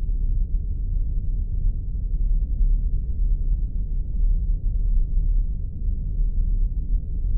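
Spaceship engine ambience sound effect: a steady deep rumble with no rise or fall.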